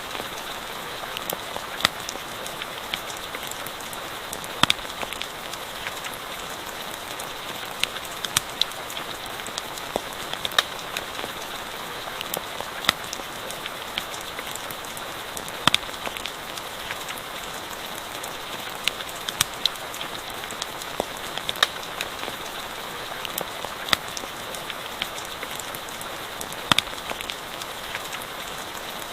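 Steady rain falling with a continuous hiss, and irregular sharp crackles and pops from a campfire scattered through it.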